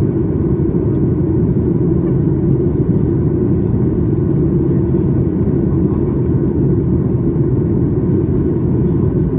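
Steady low cabin rumble inside a Boeing 737 MAX 8 airliner, from its engines and the airflow, unchanging throughout.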